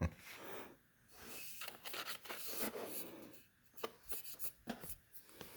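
Soft, intermittent rustling and rubbing of packaging as a boxed grinder is unpacked by hand, with a couple of small clicks about two-thirds of the way through.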